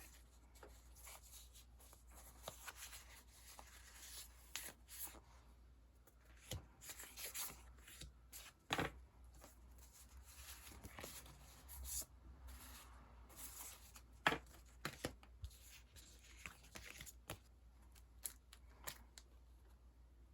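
Sticker sheets and their paper and plastic packaging being handled: soft rustling and crinkling with scattered light taps, the sharpest about 9 and 14 seconds in.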